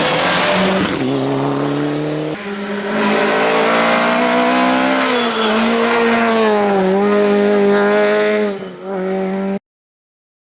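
Rally car engine at full throttle on a stage, its pitch climbing and then dropping in steps as it shifts gears, with a dip near the end as the driver lifts off. A burst of tyre and road noise comes at the start, and the sound cuts off suddenly about nine and a half seconds in.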